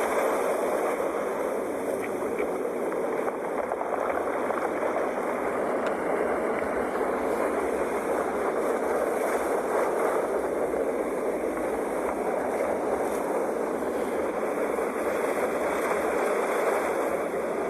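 Sea waves washing ashore: a steady rushing surf.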